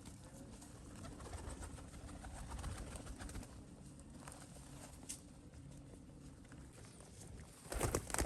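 Pigeons cooing, a low repeated call, with a brief louder clatter near the end.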